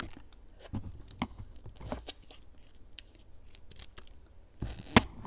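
Scattered clicks and crackles from handling fruit jelly sticks as they are pressed together, with one sharper snap near the end.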